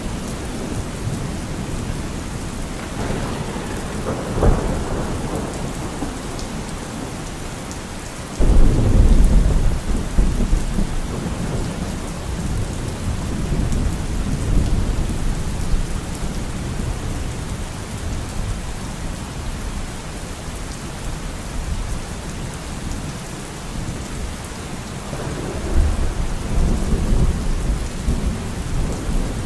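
Steady heavy rainfall with thunder: a rumble a few seconds in, a loud thunderclap about eight seconds in that rolls away over several seconds, and another low rumble near the end.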